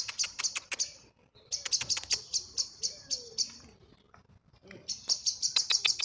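A bird calling in bouts of rapid, harsh repeated notes, about eight to ten a second. There are three bouts of one to two seconds each, with short pauses between them.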